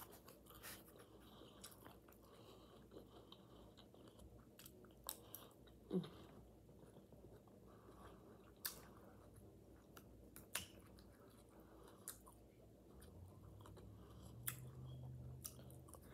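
Faint chewing and mouth-smacking of a person eating food close to the microphone, with scattered sharp clicks and smacks.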